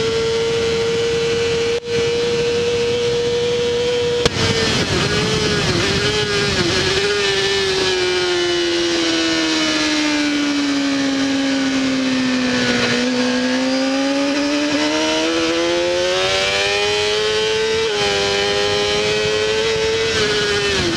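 Honda CBR600RR inline-four race engine heard onboard at high revs, with a brief cut about two seconds in like a quick upshift. Around four to seven seconds the note wobbles as if blipping through downshifts. The revs then sink slowly for several seconds and climb back up, with another short dip near the end like a gear change.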